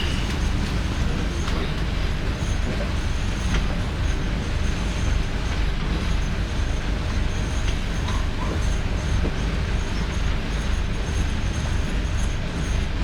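Small passenger boat's engine running steadily under way: a loud, even low rumble with a hiss of wash and air noise above it.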